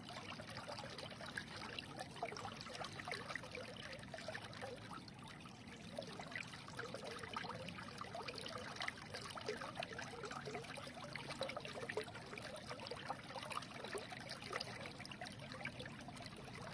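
A small stream running and trickling steadily over stones, a continuous babble of small splashes.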